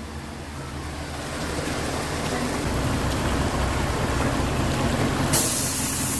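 Car engine and road noise heard from inside the cabin, growing louder as the car picks up speed, with a sudden hissing noise breaking in about five seconds in.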